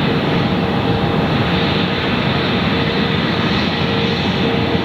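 Jet airliner engines running with a steady roar, carrying a faint steady whine.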